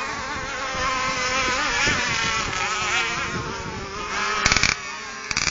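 Motors of several radio-controlled catamaran boats whining at high pitch, rising and falling as they run. A brief loud burst of noise about four and a half seconds in.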